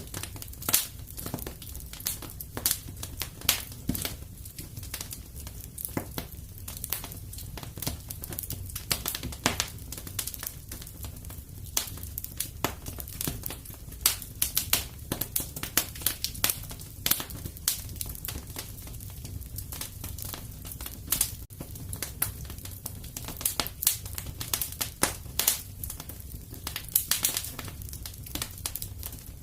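Wood fire crackling in a fireplace: irregular sharp snaps and pops of varying loudness over a low steady rumble.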